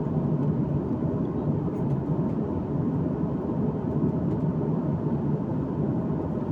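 Steady cabin noise of an airliner in flight, its engines and rushing air heard from inside the passenger cabin as an even low rumble.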